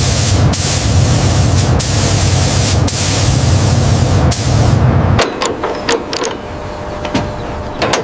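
High-pressure spray hissing in bursts over a low motor hum, broken by short pauses about once a second, then cutting off about five seconds in; a few sharp metallic clicks and taps follow.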